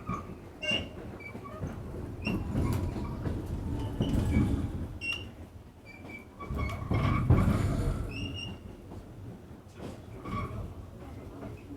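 R46 subway car running between stations: a low rumble of wheels on the rails that swells and fades, with many clicks and knocks over the track and short high squeaks and rattles.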